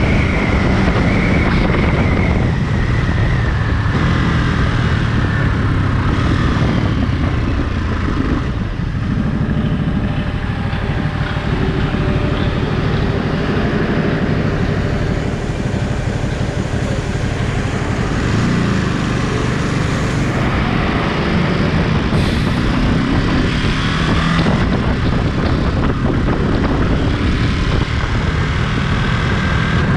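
Ducati Monster 937's 937 cc L-twin engine running under way. The engine note falls and rises several times as the bike slows and speeds up.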